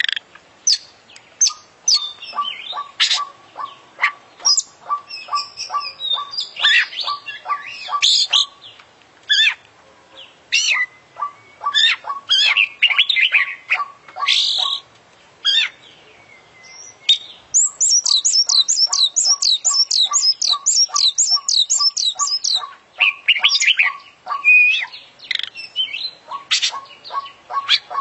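Oriental magpie-robin (kacer) singing a long, varied song packed with mimicked calls: quick chirps and squawks over a steady run of short ticking notes. About halfway through it breaks into a fast series of high, downward-sweeping whistles that lasts several seconds.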